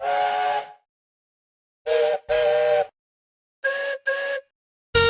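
Narrow-gauge engine whistles sounding in turn, a different whistle every second or so, each giving two short chord-toned toots. The sound cuts off abruptly between them, and a louder, lower whistle starts near the end.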